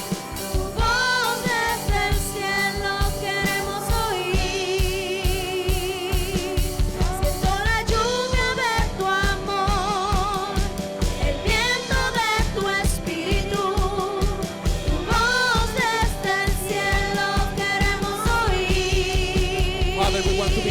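Live worship band playing, with sung melody lines held and wavering in pitch over a drum kit keeping a steady beat.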